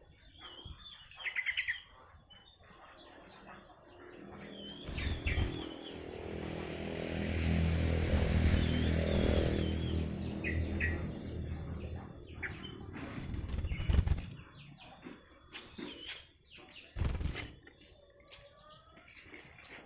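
Blackthroat (black-throated canary) singing in short twittering chirps and trills. In the middle a louder low rumble with a steady hum swells and fades under the song, and a few sharp knocks come in the second half.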